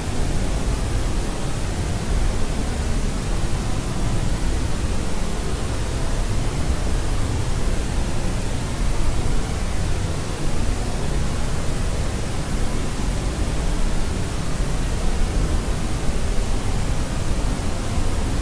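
Steady, unchanging white noise for sleep: an even hiss spread across low and high pitches, with no tones, rhythm or breaks.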